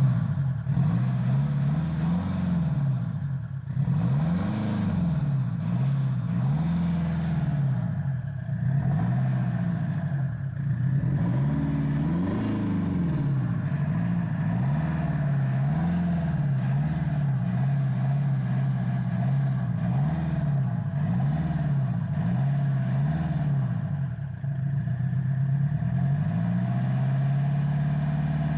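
Land Rover Freelander 2.0 turbodiesel engine blipped over and over through its exhaust, revs rising and falling about every second or two. The Y-pipe's braided flex section has just been replaced.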